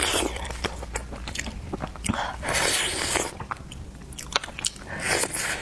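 Close-miked eating of seafood: biting and chewing with crunchy clicks, broken by three longer noisy bursts.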